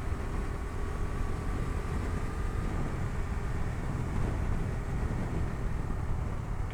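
Bajaj Dominar 250's single-cylinder engine running at a steady cruise on the move, with a low rumble and a faint held tone that drifts slightly lower.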